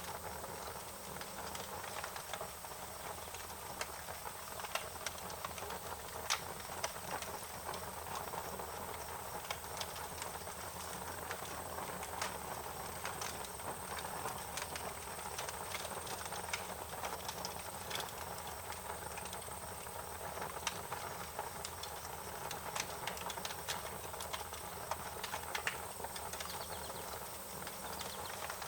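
Fire crackling: a steady hiss with irregular sharp pops and snaps scattered throughout.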